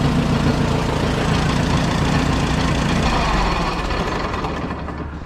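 Allis-Chalmers WD tractor's four-cylinder engine idling, then shut off: from about three seconds in it slows and fades away.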